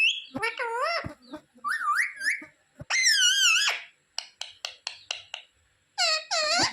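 Pet parrot calling and chattering: short whistled calls that waver in pitch, a long high call about three seconds in, then a quick run of short chirps and one more call near the end.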